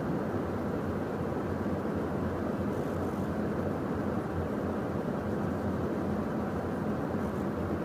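Steady cockpit noise of a Beechcraft Premier 1A business jet in the climb: an even rush with a low, constant hum underneath.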